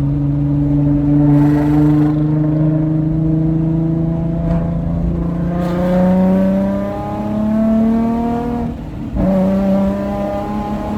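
Nissan 350Z's 3.5-litre V6 running through a titanium Agency Power straight-through exhaust, revs held and climbing slowly, then stepping up. The note drops out briefly about two-thirds of the way through and then picks up again.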